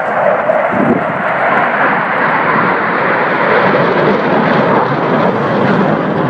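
A pair of Panavia Tornado jets, each with twin RB199 engines, passing low in full afterburner: a loud, steady jet roar.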